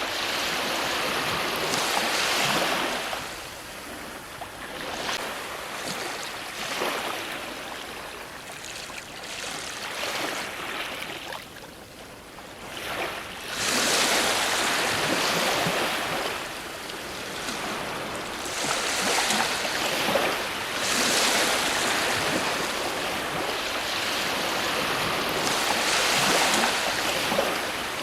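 Ocean waves breaking on a shore, the surf swelling and ebbing in a slow rhythm with several louder surges.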